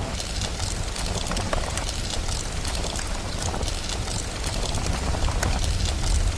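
Steady rain with a continuous low rumble of thunder underneath and scattered sharp crackles from a wood fire.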